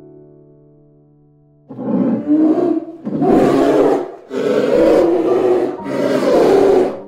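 Soft music notes fade, then about two seconds in a large animal gives four loud, harsh calls, each about a second long, with short breaks between them.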